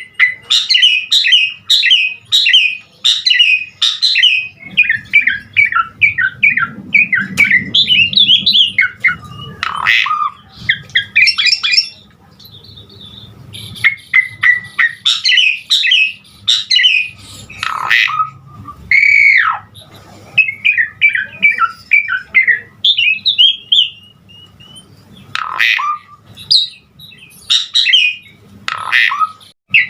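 Pied starling (jalak suren) singing a loud, varied song: fast runs of chattering and squawking notes in phrases with short pauses, and one drawn-out arched whistle near the middle. It is the full, fill-rich song (isian) that keepers play to bring other starlings into song.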